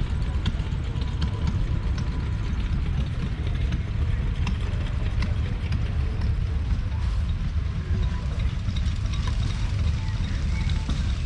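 Ford 7610 tractor's 4.4-litre four-cylinder diesel engine running steadily: a low rumble with scattered light clicks.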